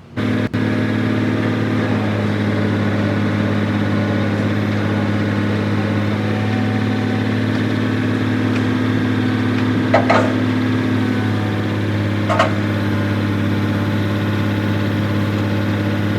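Vehicle engine idling steadily, with two short clicks about ten and twelve seconds in.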